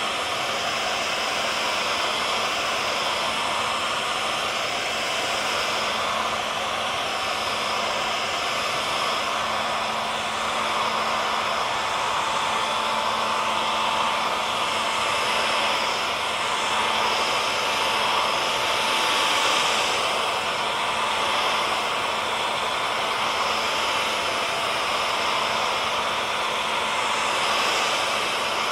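Hair dryer running steadily: an even rush of blown air over a constant motor hum and a faint whine, with only slight swells in loudness.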